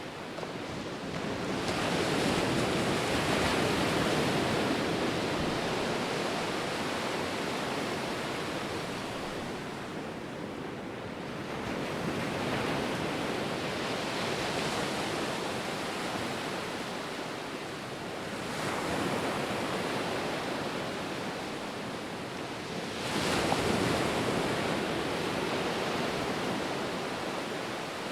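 Ocean surf: waves breaking and washing in four times, each a swelling rush of noise that fades before the next.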